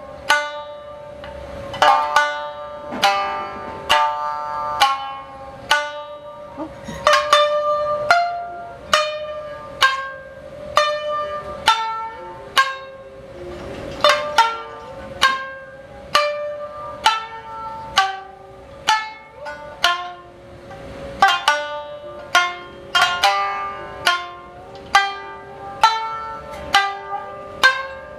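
Music on a plucked string instrument: single notes struck one after another, about one or two a second, each ringing out and fading, over a steady held tone.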